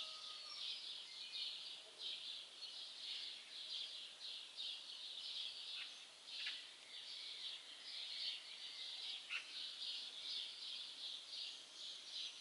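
Songbirds chirping: a continuous stream of rapid high chirps, with a few short calls sliding down in pitch around the middle.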